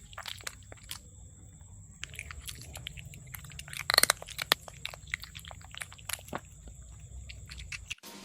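A cat chewing and crunching food, with irregular crunches and bites that are loudest about four seconds in.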